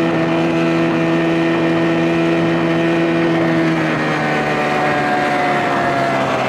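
Johnson 25 hp outboard motor running steadily at speed, pushing a small boat across the water. About four seconds in, its pitch shifts slightly and then slowly falls.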